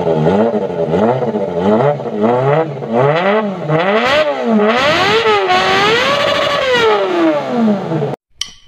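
Kawasaki ZX25R's high-revving 250 cc inline-four being blipped over and over, its pitch rising and falling in about ten quick revs. Then comes one longer rev that rises, holds and falls away, before the sound cuts off suddenly near the end.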